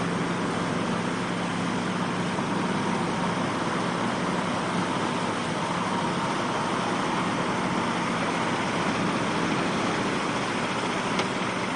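A vehicle engine running steadily under a steady rushing noise, with a single sharp click near the end.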